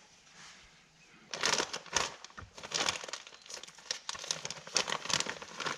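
Packaging crinkling and rustling in irregular bursts as a new vent window hardware kit is handled and unwrapped, starting a little over a second in.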